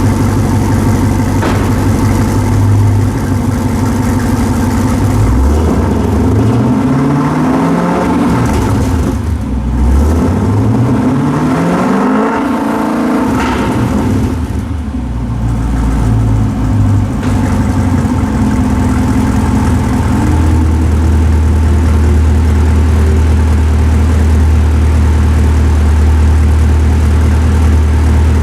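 2017 Cadillac CTS-V's supercharged 6.2-litre V8 through a Stainless Works cat-back exhaust, idling and then revved twice to about 3,000–3,500 rpm, each rev rising and falling back to idle. A short blip follows, and then it settles into a steady idle. The revs are held down by the car's stationary rev limit of 3,500 rpm, in an underground car park.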